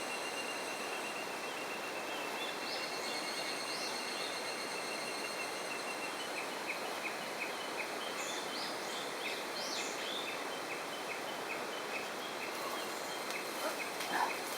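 Steady rush of a waterfall and river, with high chirps on top that repeat about three times a second from about halfway in.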